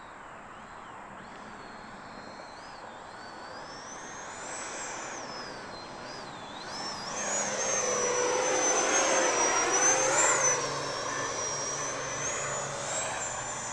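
FMS Rafale RC jet's electric ducted fan whining in flight, its pitch wavering up and down with the throttle. It grows louder about seven seconds in as the jet passes close, is loudest around ten seconds, then eases off a little.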